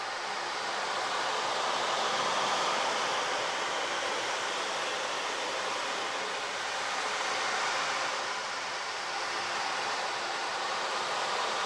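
A steady rushing noise, without any clear tone, that swells and eases gently every few seconds.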